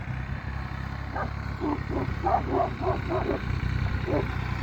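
Shepherd dog barking: a quick run of about eight barks, then single barks near the end, over the steady low hum of a vehicle engine running.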